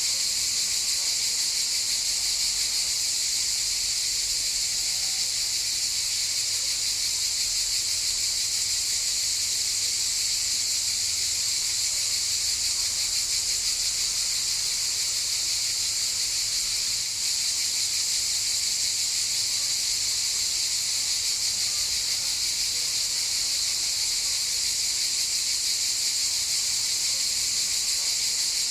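A chorus of cicadas buzzing steadily in one continuous high-pitched drone, with a brief dip a little past the middle.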